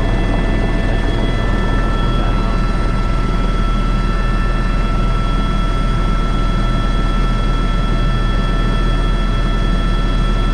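Airbus H125 (AS350 B3) helicopter running, heard from the cockpit: a steady rotor and turbine din with several constant high whining tones over it. A further high tone comes in about a second in.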